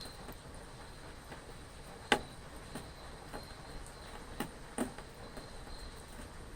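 Steady rain with scattered drops striking close by, one sharper drip about two seconds in and two more near the end, over a faint high trill of crickets.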